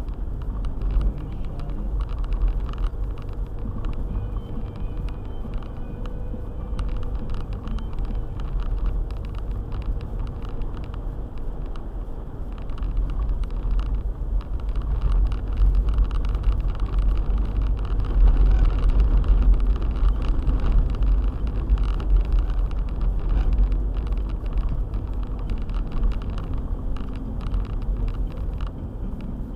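Car on the move: a steady low rumble of engine and tyres, with many small clicks and knocks throughout. It grows somewhat louder in the middle of the stretch.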